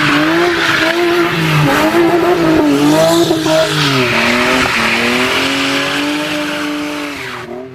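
Car doing a burnout: engine held high in the revs, its pitch wavering up and down, over the steady screech of spinning tires. It fades out near the end.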